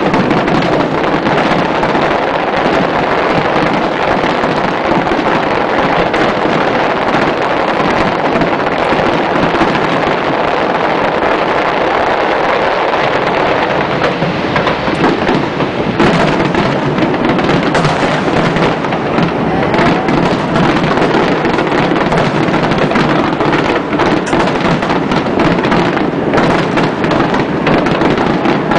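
Fireworks display in full barrage: shell bursts and crackle following so closely that they merge into one continuous rumble, with a few sharper bangs standing out about halfway through.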